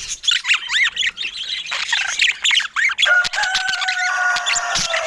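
Budgerigars chattering in quick, warbling chirps that slide up and down in pitch. About three seconds in, a long, steady, pitched call is held for about two seconds.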